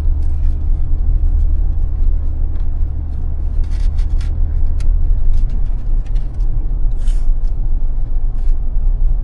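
Low engine and road rumble inside a moving vehicle, with a few short rattles; the low drone shifts about five seconds in.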